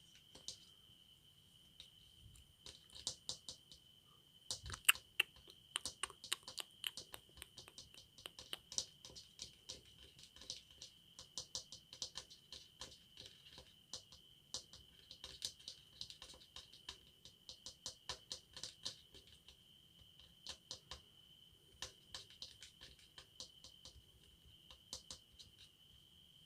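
Fingernails tapping and clicking on the plastic body of a hair dryer: quick, irregular taps in runs, the loudest about five seconds in, with a faint steady high tone behind them.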